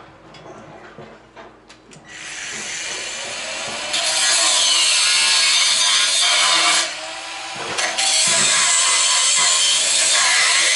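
Angle grinder spinning up about two seconds in, then cutting metal loudly with an even, hissing grind. The cut breaks off for about a second near the middle and then resumes.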